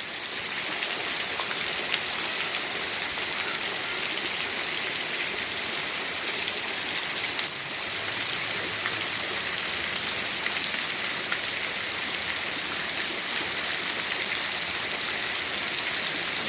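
Rain falling steadily, a dense even hiss of drops on the street and surfaces.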